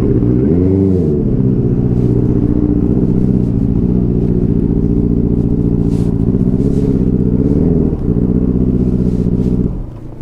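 Benelli TNT 600i inline-four motorcycle engine running just after starting, given one brief throttle blip about a second in, then idling steadily. It stops shortly before the end.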